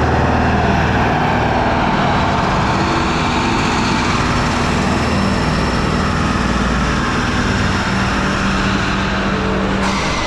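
Dump truck's diesel engine running loudly and steadily.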